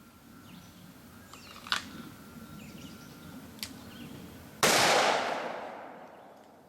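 Two sharp clicks, then about four and a half seconds in a single loud gunshot that fades away over about two seconds. Faint bird chirps can be heard in the background.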